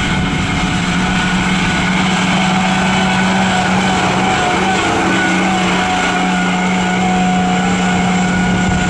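A mud truck's engine held at high, fairly steady revs, running hard with only slight changes in pitch.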